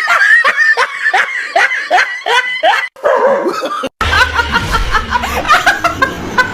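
A person laughing in quick, repeated bursts of giggling. Around four seconds in, the sound cuts to another stretch of rapid laughter over a low rumble.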